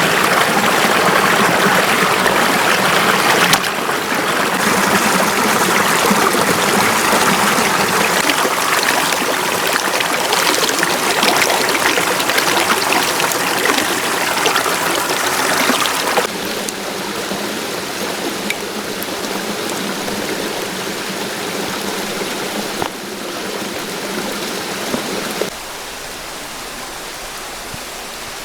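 Mountain stream rushing steadily, with its loudness dropping abruptly a few times partway through and near the end.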